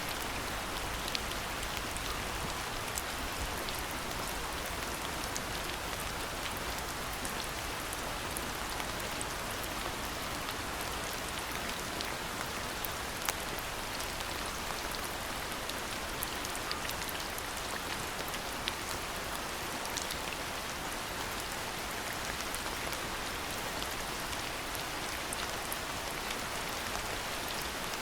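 Steady rainfall: an even hiss of rain with scattered sharper drop impacts.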